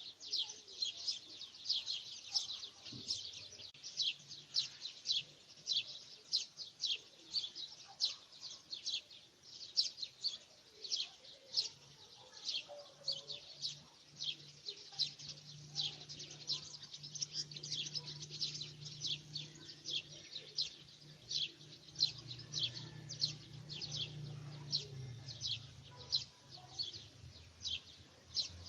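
A bird chirping over and over, about two or three short, high chirps a second. A low, steady hum comes in about halfway through and fades out near the end.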